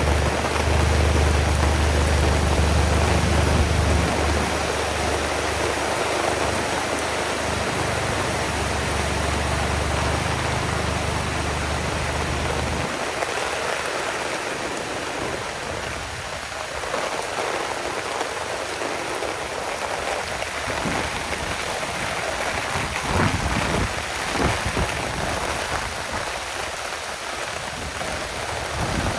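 Heavy rain pouring down steadily, with a low rumble underneath that stops abruptly about halfway through. In the second half, separate sharper drop splashes stand out.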